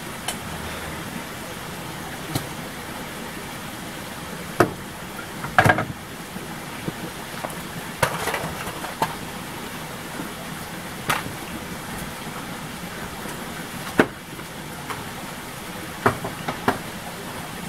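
Scattered sharp knocks of hand-tool work on bamboo, irregular and a few seconds apart, over a steady hiss.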